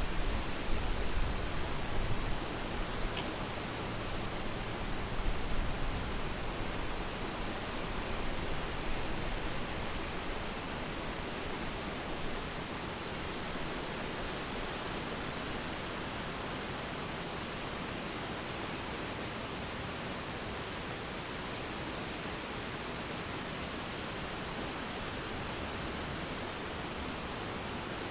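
Steady, high-pitched chorus of crickets trilling over a constant background hiss. A low rumble is heard during the first ten seconds or so, then fades.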